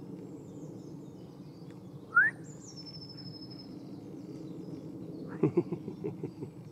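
A songbird singing a short high phrase that drops and then holds steady. A sharp, loud rising squeak comes just before it, and a quick run of knocks and rustles comes near the end.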